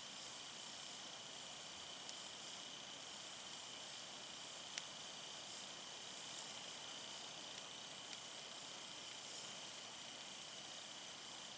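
Wood campfire burning: a steady soft hiss with a few sharp single crackles, about two, five and eight seconds in.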